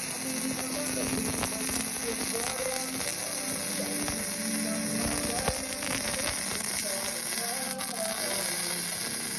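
MIG (GMAW) welding arc crackling and sizzling steadily, with faint humming tones underneath.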